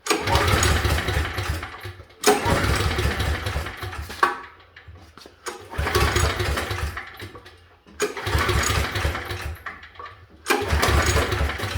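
Briggs & Stratton 5,550-watt portable gas generator's engine cranked over five times in succession, each attempt about two seconds long, without catching: it fails to start with the choke set halfway.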